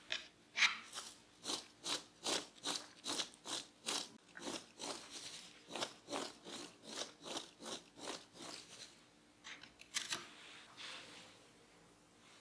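A knife cutting through raw potato onto a cutting board: a steady run of crisp crunching strokes, about two and a half a second, stopping briefly near the end and then a few more cuts.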